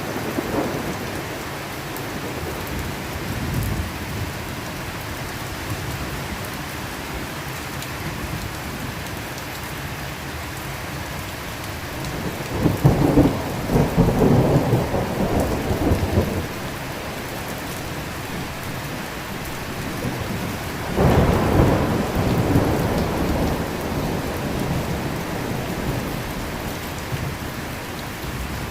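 Thunderstorm: steady rain falling, with thunder rumbling loudly twice, once a little under halfway through for about four seconds and again about three-quarters of the way through, plus a fainter rumble at the start.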